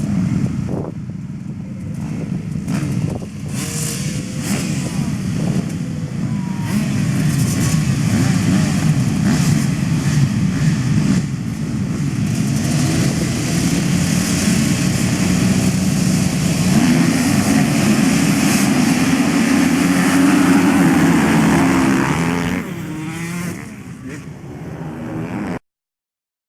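Many motocross bikes running together at a race start, a dense mix of engines revving and accelerating. It builds and stays loud, falls away about 22 seconds in, and then cuts off abruptly near the end.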